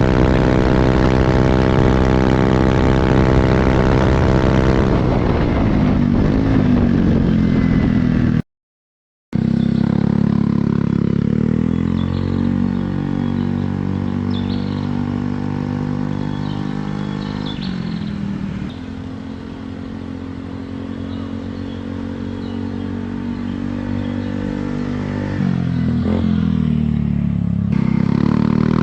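Automatic scooter engine running through an aftermarket quiet-type exhaust. It holds steady revs for a few seconds, then falls back, and after an abrupt cut runs at lower revs before revving up again near the end.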